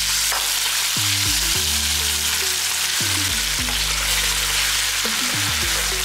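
Marinated chicken pieces sizzling in hot oil with fried onions in a pan, a steady frying hiss. Background music with low, shifting notes plays under it.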